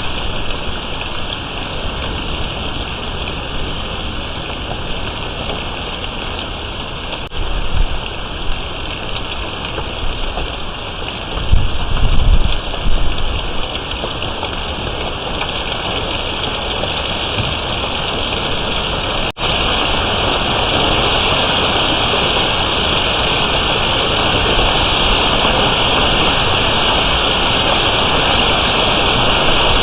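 Heavy storm rain pouring down in a steady, dense hiss, with gusts of wind buffeting the microphone about a quarter and about two-fifths of the way through. The downpour grows louder in the last third.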